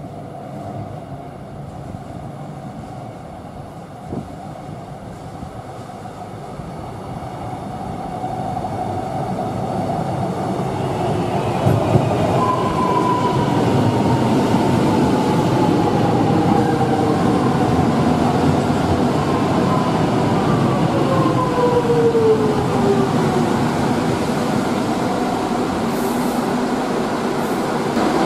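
Suburban electric train arriving at an underground platform. It grows louder as it runs in, then gives a falling whine as it brakes to a stop.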